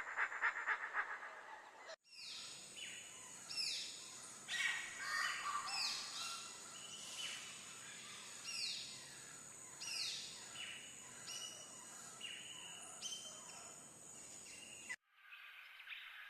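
Rainforest birds calling in a chorus of repeated, overlapping whistles that each slide sharply downward in pitch, over a steady high-pitched hum. In the first two seconds, before an abrupt cut, there are pulsing honk-like animal calls, and the chorus cuts off suddenly near the end.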